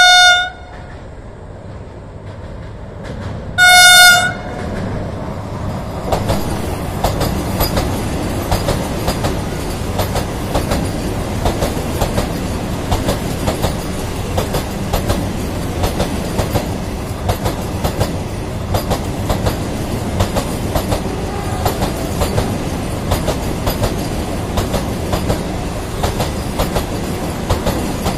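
Vande Bharat Express electric train sounds its horn twice as it approaches, a short blast and then a longer, louder one about four seconds later. It then runs past close by at speed: a steady rumble with rapid, continuous clickety-clack of wheels over the rails.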